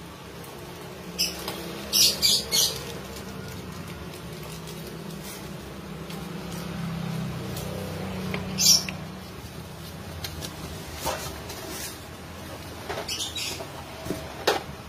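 A kitten's paws splashing and scrabbling in shallow water in a plastic basin: a few brief sharp splashes, the loudest about two seconds in and near nine seconds, with smaller ones near the end.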